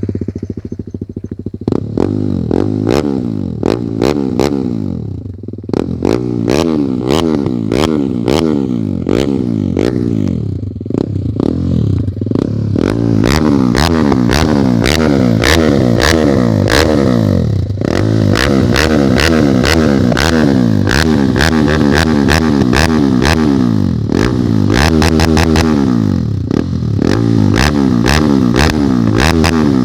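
TVS Apache RR 310's single-cylinder engine through an aftermarket Yoshimura slip-on exhaust, accelerating hard through the gears: the pitch climbs again and again and drops at each shift. Very loud.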